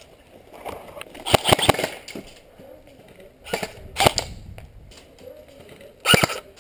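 Airsoft guns firing: a quick run of several sharp shots about a second and a half in, single shots around three and a half and four seconds, and two quick shots near the end.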